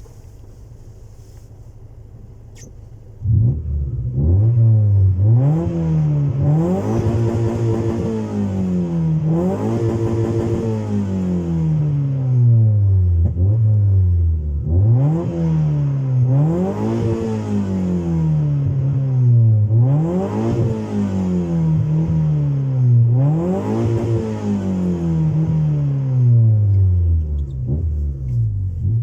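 Honda Civic 1.4i S four-cylinder engine through a custom-made exhaust, idling quietly at first. About three seconds in it is revved up sharply, then it is revved and let fall back over and over, roughly every three seconds.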